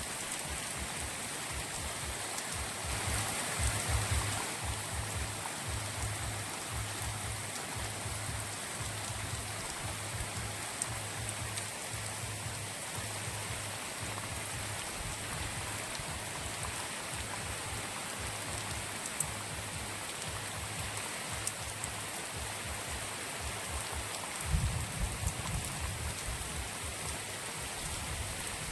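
Steady light drizzle falling, an even hiss of rain. A low rumble runs underneath and swells briefly about four seconds in and again near the end.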